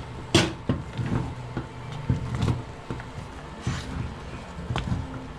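A wooden stirring stick knocking and scraping against a cooking pot while thick millet dhido is stirred, with irregular knocks about twice a second over a low steady hum.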